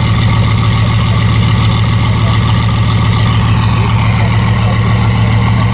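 Bugatti Veyron 16.4's quad-turbo W16 engine idling steadily through a Mansory exhaust, a loud, even low drone with no revs.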